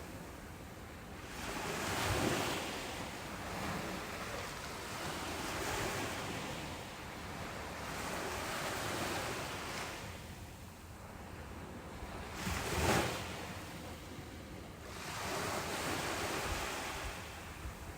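Ocean waves breaking on a beach: surf swelling and washing back in slow surges every few seconds, with the sharpest break about two-thirds of the way through.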